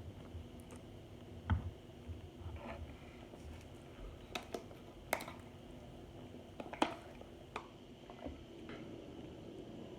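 Chewing and crunching of chunks of Argo laundry starch, heard close up, with a handful of sharp, brief crunches and crackles spread through.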